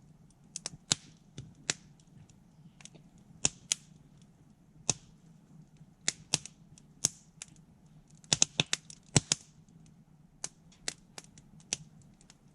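Wood campfire crackling and popping: irregular sharp snaps, with a quick cluster of pops about eight to nine seconds in.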